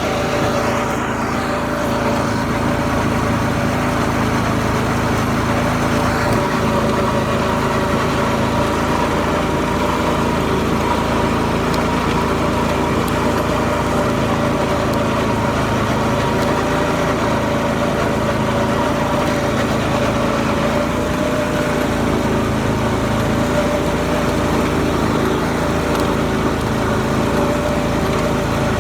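Garden tractor engine running steadily at an even speed, its pitch holding level without revving.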